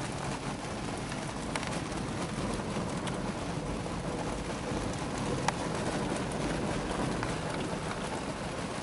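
PDQ ProTouch Tandem friction car wash at work: the side brushes scrubbing along the car body with water spraying, a steady rain-like wash heard from inside the car, with one sharp tick about halfway through.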